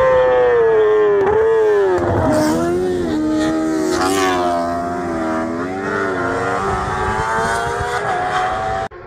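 Racing motorcycle engine at high revs passing close by. Its note drops as it goes past, then rises and falls with the throttle and gear changes as it pulls away. The sound cuts off suddenly near the end.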